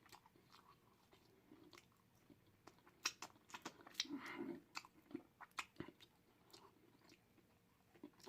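A person chewing deep-fried turkey tail with the mouth close to the microphone: faint wet chewing and lip smacks with sharp little clicks, busiest around the middle.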